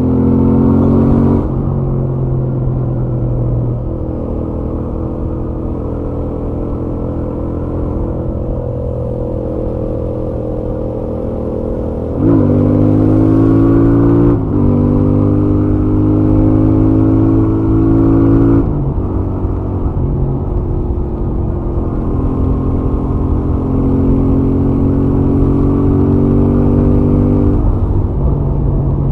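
Stock Royal Enfield Interceptor 650's 648 cc parallel-twin engine and exhaust running at highway speed, heard from the rider's helmet. About twelve seconds in the throttle opens sharply and the engine note climbs steadily for some six seconds before easing off. A gentler pull follows later and eases near the end.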